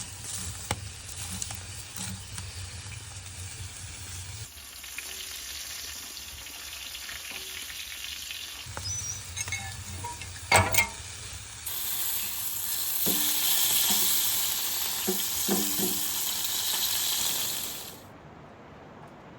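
Food sizzling and frying in a hot pan, with a few clicks and clinks, in several short segments that change abruptly. The loudest, brightest sizzle comes in the second half and cuts off suddenly near the end.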